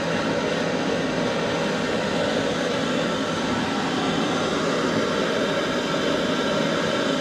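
A steady, even rushing hiss with no breaks or knocks.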